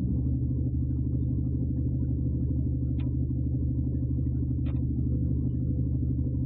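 Truck engine running steadily, a low rumble with two faint ticks in the middle.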